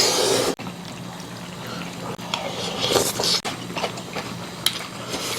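Budae-jjigae (sausage stew) bubbling at a boil in a pot, with scattered light clicks of utensils.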